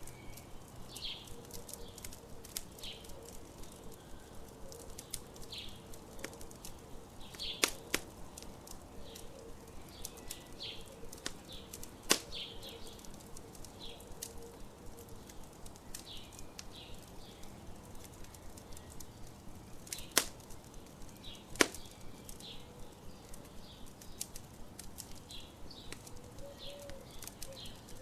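Wood campfire crackling steadily, with a handful of loud sharp pops, over short high bird chirps repeated every second or so.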